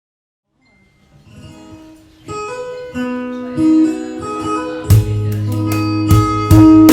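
Acoustic guitar playing a song's introduction: it comes in about a second in with quiet picked notes that build, then louder strummed chords with a strong bass start about five seconds in.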